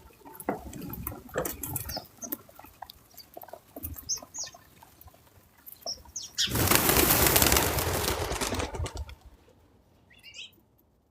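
Birds' wings flapping as a group takes off, a loud flurry lasting about two and a half seconds past the middle. Before it come scattered small clicks and rustles, and a few brief chirps sound around it.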